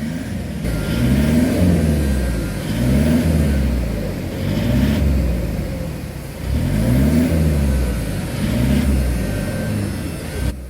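Toyota Prado engine revved up and let back down about five times in a row during an HHO (hydrogen) decarbonizing treatment.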